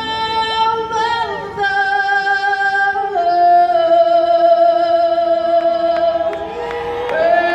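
A singer holding long notes in a slow melody, each note lasting a second or more before stepping to the next.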